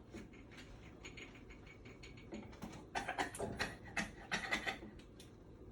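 A quick run of small clicks and rattles, sparse at first and densest from about three to five seconds in.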